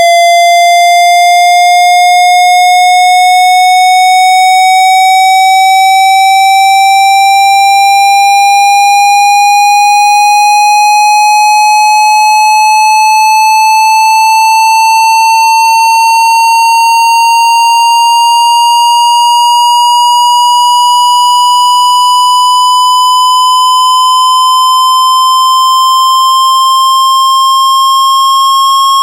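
Loud synthesized speaker-cleaning tone, one pitch with buzzy overtones sliding slowly and steadily upward, with a faint pulse about once a second.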